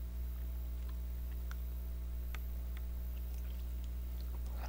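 A few faint soft clicks of a man chewing a chapssaltteok (glutinous rice cake) eaten from its clear plastic wrapper, over a steady low electrical hum.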